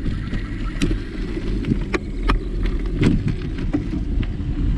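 Wind rumbling on the microphone while riding a bicycle, with scattered sharp clicks and rattles from the bike.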